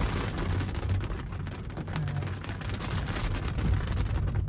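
Rain falling on the car's roof and windshield, heard from inside the cabin as many small drop hits over a low, steady rumble from the car and traffic.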